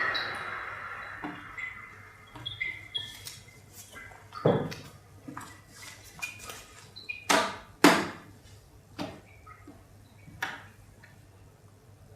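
A loud sound fades away, then scattered sharp clinks and knocks, the loudest one about four and a half seconds in and two more close together near the eight-second mark.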